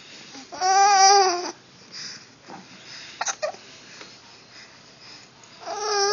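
A baby vocalising: one long held call about a second in, a few short soft sounds, then another long call starting near the end that slides down in pitch.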